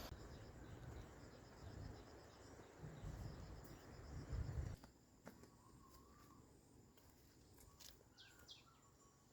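Faint rural ambience: a low rumble that cuts off about five seconds in, then quiet with a steady faint high insect buzz and a few faint bird chirps.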